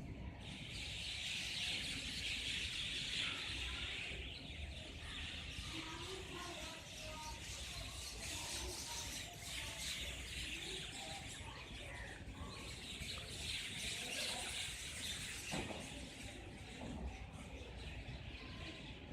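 Many birds chirping together in a dense, continuous chorus, busiest in the first few seconds.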